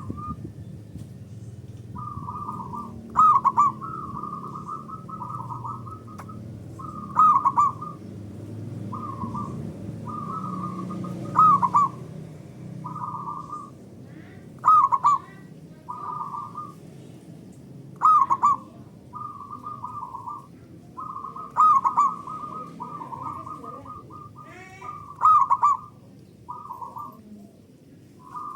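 Zebra doves (perkutut) cooing: phrases of clear, pitched notes repeat throughout, with a louder accented note about every three and a half seconds. A steady low background hiss runs underneath.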